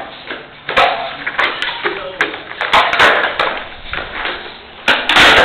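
Skateboard knocks and clacks, the board hitting the ground in several irregular sharp hits, with a louder, noisier burst near the end.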